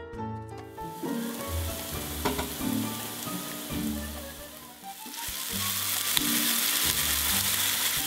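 Finely minced onion and garlic sizzling in hot oil in a frying pan, stirred with a spatula; the sizzle sets in about a second in and grows louder about halfway through. Soft background music plays underneath.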